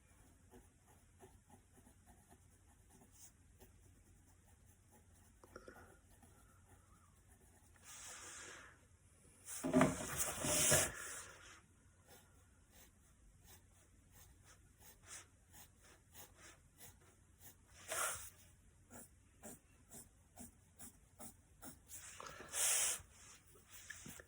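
Drawing on paper: a pen or marker making many quick, faint scratching strokes. Three louder, brief rubbing noises come in, the loudest about ten seconds in and another near the end.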